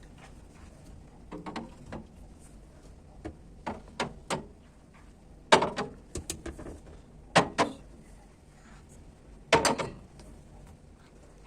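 Knocks and clicks of kitchen cabinet doors, drawers and containers being handled while a pantry cupboard is arranged. They come one at a time at uneven intervals, and the three loudest fall in the second half, about two seconds apart.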